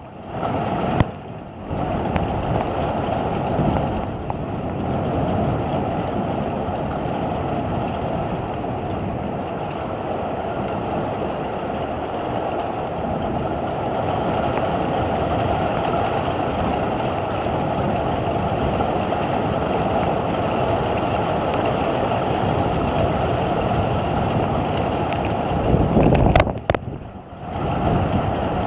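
Heavy downpour with storm wind: a steady, dense rushing of rain and gusts that cuts out briefly near the start and again near the end, just after a short louder burst.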